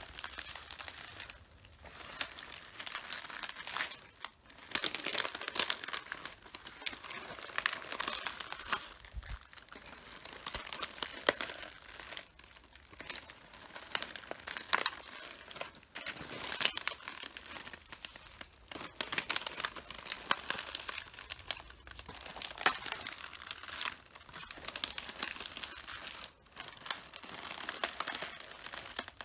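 Red cabbage leaves crunching and crackling as they are trodden underfoot. The sound comes in clusters a couple of seconds long, one step after another, with sharp snaps of breaking leaves.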